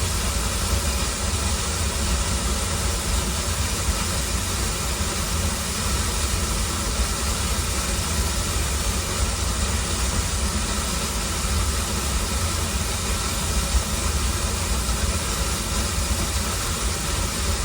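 Waterfall: a steady, loud rush of falling water with a deep low end.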